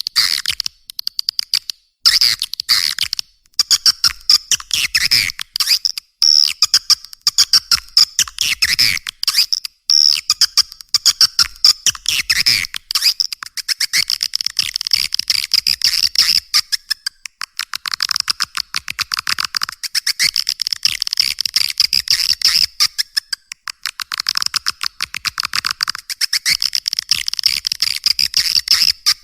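Swiftlet lure call track: a dense, continuous stream of high, rapid chirps and clicks of edible-nest swiftlets, of the kind played to draw swiftlets into a swiftlet house.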